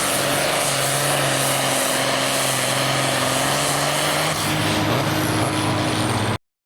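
A modified pulling tractor's engine runs hard at high revs. Its pitch steps up slightly a little over four seconds in, and the sound stops abruptly near the end.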